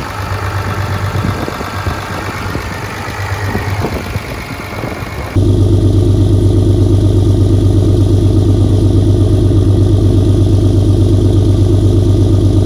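Pickup truck engine idling. About five seconds in, the sound jumps abruptly to a louder, steady idle with an even pulse, as if heard much closer to the engine.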